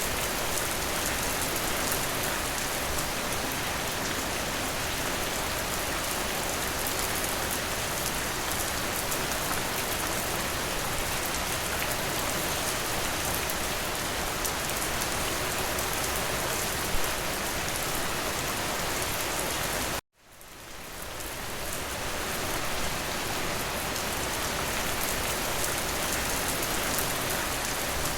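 Steady rain, an even dense hiss with fine patter of drops and one sharper tap. About two-thirds of the way through it cuts out abruptly and fades back in over a couple of seconds.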